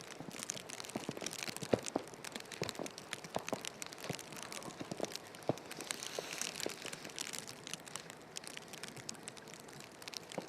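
Footsteps crunching in snow, a louder crunch about every three-quarters of a second over a steady fine crackle.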